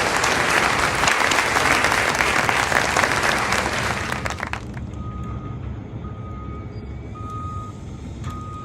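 A dense, loud hissing rush, like applause, for about four and a half seconds, then it drops away to a quieter low rumble with a short steady beep repeating about once a second.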